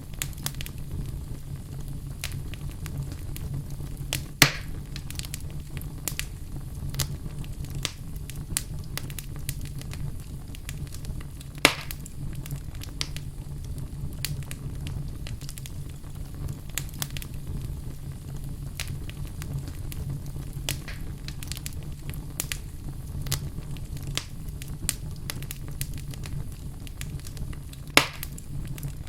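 Wood fire burning in a fireplace: a steady low rumble of flames under constant small crackles, with three louder pops from the burning logs, about four seconds in, about twelve seconds in, and near the end.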